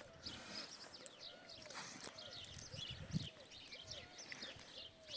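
Birds chirping: a busy mix of faint high twittering, with a lower short call repeated about three times a second.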